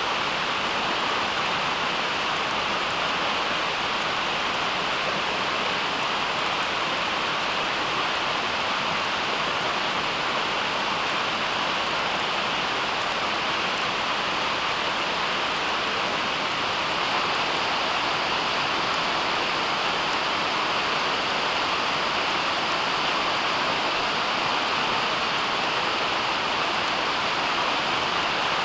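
Steady, even rushing of water, unchanging in level.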